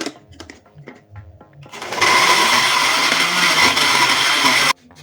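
Electric blender running, blending chopped potato: a loud, steady motor whir that starts abruptly about two seconds in and cuts off suddenly near the end.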